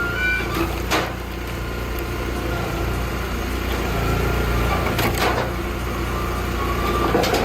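Engine of a large hydraulic wood splitter running steadily, with three sharp cracks: about a second in, around five seconds, and near the end, as logs split apart.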